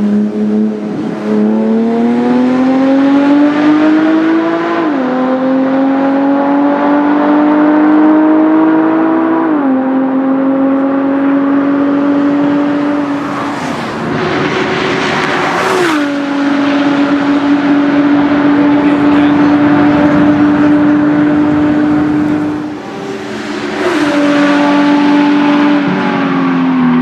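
Porsche Cayman R's 3.4-litre flat-six, loud through a Fabspeed Race exhaust, accelerating through the gears. The pitch climbs in each gear and drops at upshifts about 5 and 10 seconds in, then holds a steady note with a few further shifts later.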